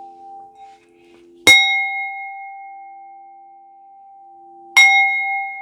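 Singing bowl struck twice, about three seconds apart. Each strike rings out in a clear tone with higher overtones that fades slowly, over the bowl's steady, wavering hum.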